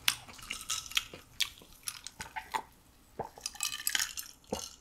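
Close-miked chewing with wet mouth smacks and clicks, then swallowing gulps from a glass of drink near the end.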